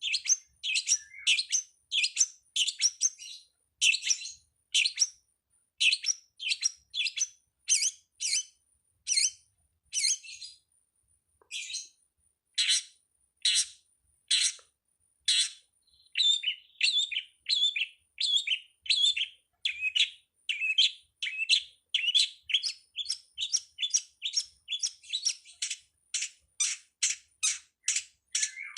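Long-tailed shrike (pentet/cendet) song: a long run of short, harsh, scratchy notes repeated about twice a second, quickening to about three a second after halfway.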